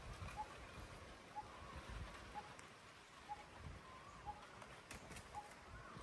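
Faint bird repeating a single short note about once a second, with a few other soft bird calls, in quiet forest ambience.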